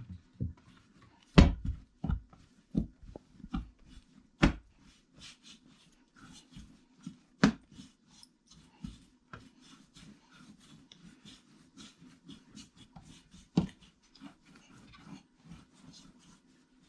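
Kitchen handling noise while roti dough is portioned into loaves: scattered knocks and taps on a bowl or board, four louder knocks among them, with soft rustling between.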